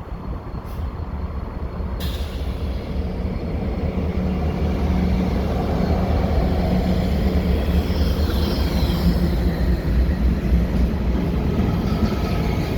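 Diesel freight locomotives approaching on the nearest track, a low engine rumble growing louder. A faint high squeal is heard about 8 seconds in.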